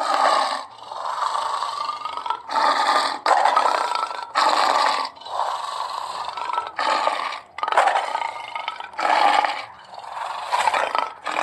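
Lion roaring: about ten rough calls in a row, each half a second to a second and a half long, with short pauses between them.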